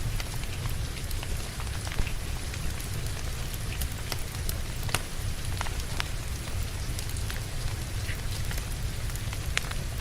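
Steady rain falling on a surface, with the irregular pops and crackles of burning fireplace logs mixed in; the sharpest crack comes about two seconds in.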